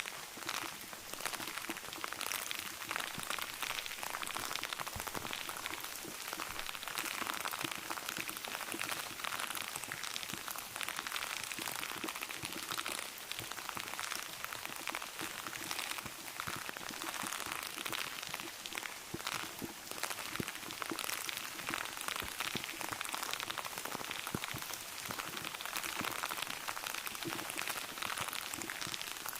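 Rain pattering steadily, a dense, even patter of drops.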